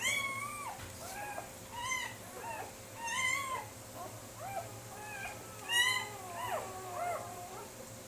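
Several German Shepherd puppies whining, short high cries that rise and fall, overlapping, about one a second; the loudest comes about six seconds in.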